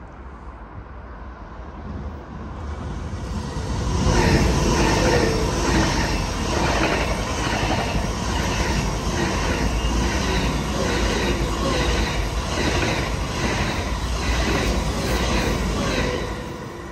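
Swiss SBB passenger train passing at speed on the near track: a steady rumble of wheels on rails with a regular clatter of wheels over rail joints, about one and a half beats a second. It builds over the first few seconds and falls away near the end.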